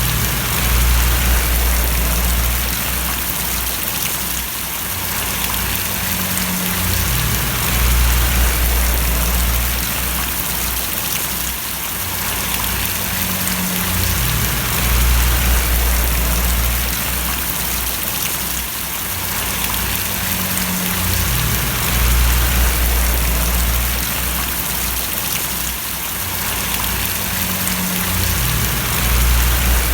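Steady rain falling, an even hiss of drops, with a low rumble underneath that swells and fades about every seven seconds.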